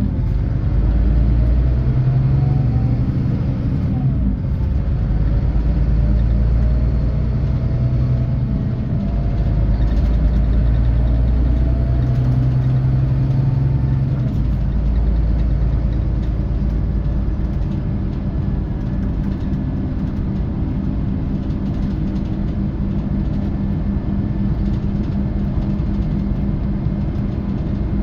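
A Scania K450 coach's 13-litre six-cylinder diesel pulling under load. Its pitch climbs, drops at a gear change about four seconds in, then climbs slowly again before settling into steady cruising for the second half.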